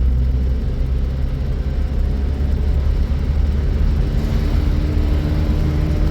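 A motor vehicle's engine running steadily with a low drone.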